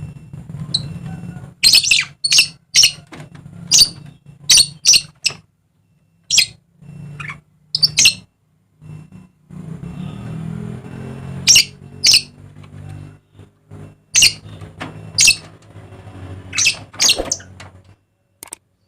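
Dusky lories giving about sixteen short, harsh calls, singly and in quick pairs, over a low steady hum.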